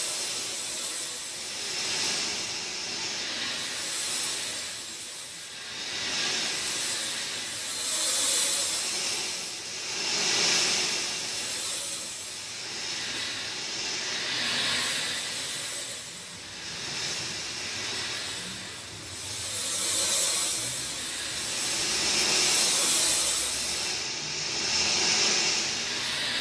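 Rain falling steadily as a dense hiss that swells and eases every couple of seconds.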